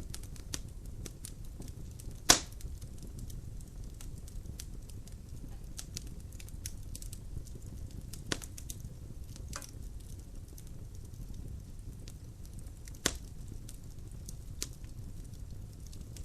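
Logs burning in a fireplace: a low steady rumble of the fire under scattered crackles, with a few sharp snaps, the two loudest about two seconds in and again late in the stretch.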